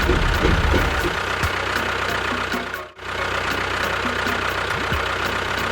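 Engine running steadily at idle, with a low, even chug. It drops out for a moment about three seconds in, then carries on.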